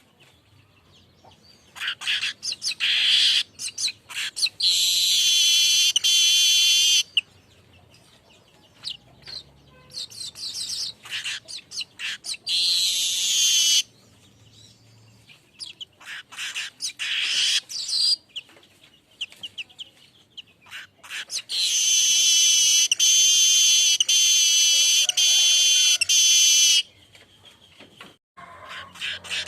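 Weaver bird (manyar) singing: bursts of sharp, high chirps and chatter broken by three long, wheezy buzzing phrases, the longest near the end.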